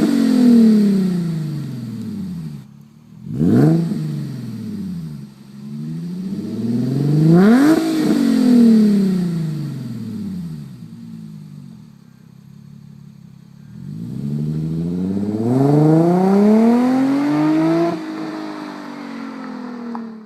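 Infiniti G35's 3.5-litre V6 exhaust revving: three blips that rise and fall back, a short settle at idle, then a longer pull with the pitch climbing for about four seconds before it eases off to a low burble and cuts off at the end.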